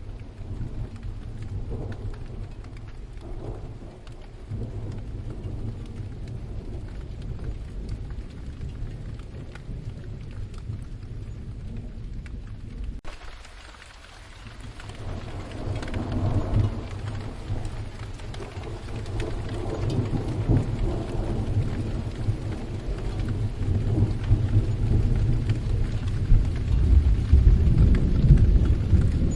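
Steady rain falling with rolling thunder rumbling low underneath. The rain dips briefly about halfway through, then the thunder swells and grows loudest near the end.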